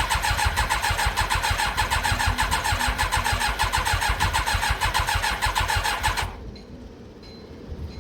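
Yamaha YZF1000R Thunderace inline-four being turned over on its electric starter, an even, rapid cranking rhythm that runs for about six seconds without the engine catching, then stops. The fuel is still working its way into the freshly rebuilt carburettors' float bowls. A short low burst comes right at the end.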